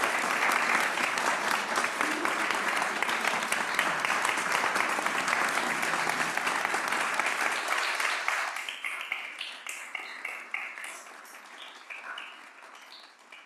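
Congregation applauding, steady for about eight seconds, then thinning to scattered claps that die away.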